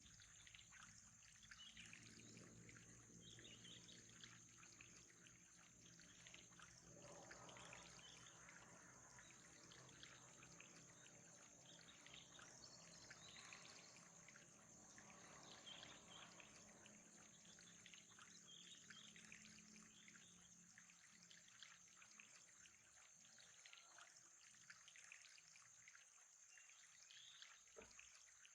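Faint trickling water under a steady high hiss.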